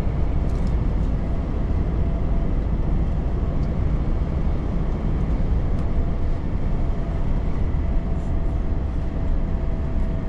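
Volvo FH truck driving at steady speed: a continuous low rumble of engine and road noise with no changes.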